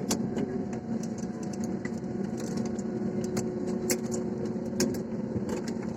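Airliner cabin noise after landing: the jet engines' steady hum with a few level tones, and scattered short clicks and rattles from the cabin.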